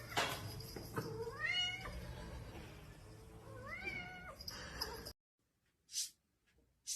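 Domestic cat meowing twice, each call rising in pitch and then levelling off. Two short hissy noises follow near the end.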